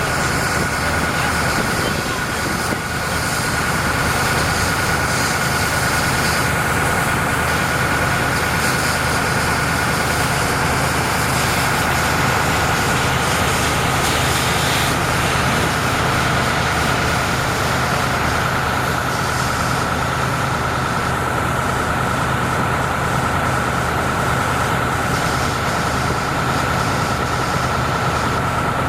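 Heavy truck engine idling steadily, with a steady high whine and a constant hiss over it.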